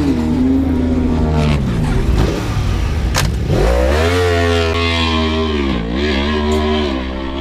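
Racing motorcycle engines: a pitch sliding down over the first few seconds, then a sharp rev upward about three and a half seconds in, held at a high steady note with a brief dip near six seconds, over a steady low hum. A single sharp click about three seconds in.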